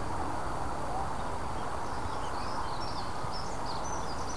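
Small songbirds chirping in short, high, quick phrases, busiest in the second half, over a steady outdoor background noise.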